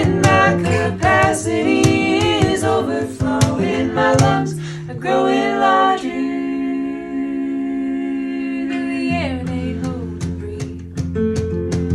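Live band music: wordless singing or humming over guitar and bass, settling into a held chord partway through before picked notes and a rhythm pick up again.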